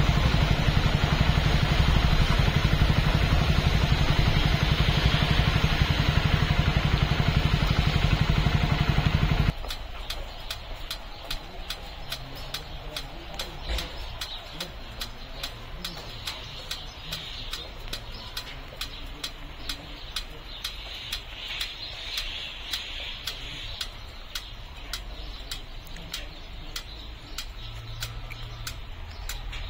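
A loud steady rumbling noise for about the first ten seconds, cutting off suddenly. Then light rain falling, with many sharp, irregular drop ticks close by over a soft hiss.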